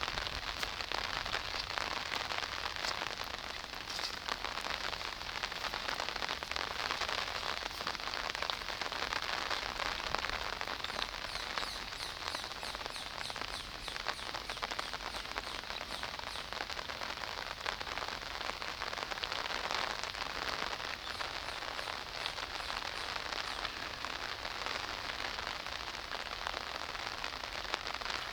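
Steady rain falling, a dense, even patter of drops. Twice, about midway and again later, a run of rapid, faint, high-pitched ticks sounds over it.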